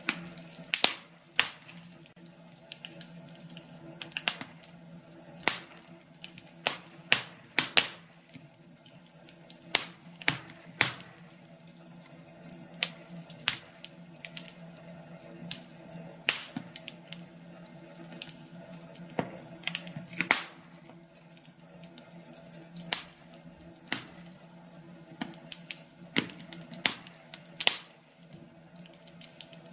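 Burning firewood crackling in a fireplace: irregular sharp pops and snaps, about one or two a second, some louder than others, over a soft steady background.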